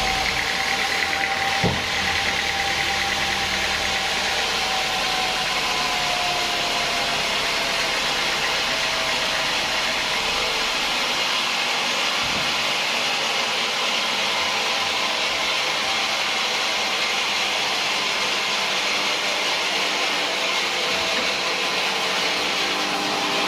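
Sawmill machinery running steadily, making a constant rushing noise with a faint tone that slowly drops in pitch over the first ten seconds. There is a single knock about two seconds in.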